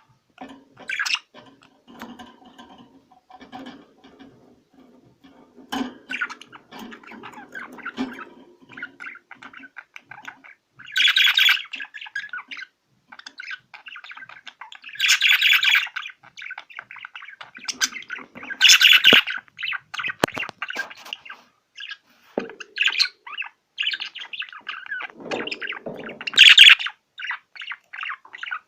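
A group of small birds chirping and squawking continuously, with several loud bursts of excited chatter, a recording of the kind played to pet birds to encourage breeding and activity.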